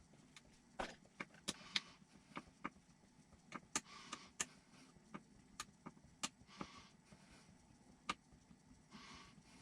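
Small parts and hand tools clicking and tapping, with a few short scraping swishes, as RC kit suspension parts are fitted together.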